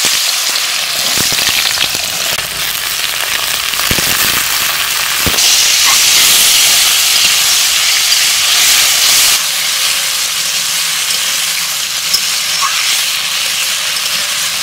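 Diced potatoes sizzling in hot mustard oil in an aluminium kadai, a loud steady frying hiss that grows stronger about five seconds in and eases a little after about nine. A few sharp knocks against the pan come in the first five seconds.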